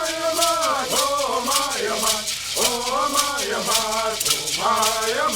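Bird singing, the Native American song tradition: voices chant phrases with sliding pitch, broken by short breaths, over gourd rattles shaken in a steady rhythm.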